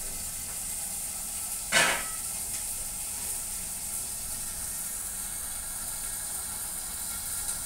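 String beans frying in a lidded wok: a steady sizzling hiss of oil and steam, with a single knock about two seconds in.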